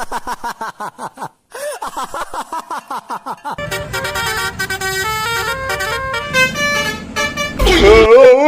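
Telolet-style musical bus horn playing a rapid melody of short, warbling, stepping tones, with a louder sliding tone near the end.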